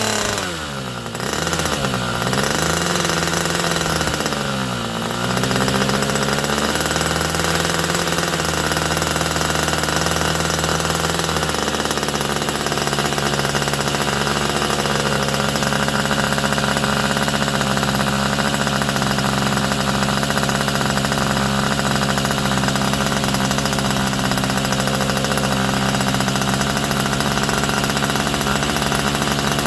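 Irvine 61 two-stroke glow engine running on the bench. It is throttled back and opened up again twice in the first five seconds or so, then runs steadily at high speed.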